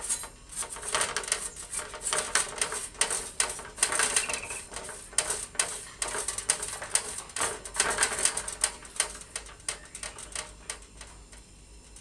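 Rapid, irregular clicking and tapping, several sharp clicks a second, thinning out and dying away in the last two seconds.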